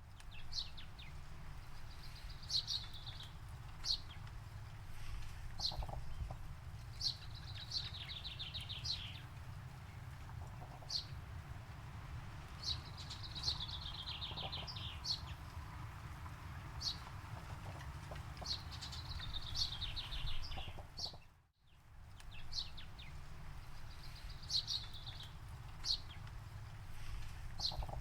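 Songbirds singing: high, rapid trills of quickly repeated notes, each about a second long, recurring every few seconds, mixed with short sharp chirps, over a steady low rumble. About two-thirds through, everything briefly fades out and comes back.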